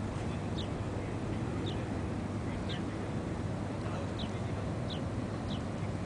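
A small bird chirping: about seven short, high, falling chirps at irregular intervals, over a steady low background rumble.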